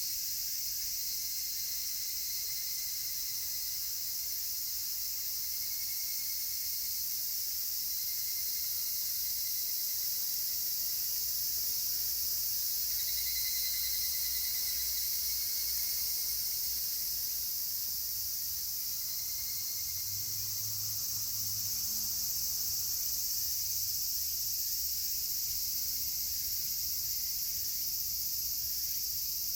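A dense chorus of cicadas shrilling steadily at a high pitch, with the repeated calls of higurashi (evening cicadas) fading in and out over it.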